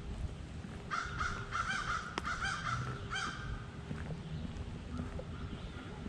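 A bird calling outdoors: a quick run of about six short calls, starting about a second in and stopping a little after three seconds.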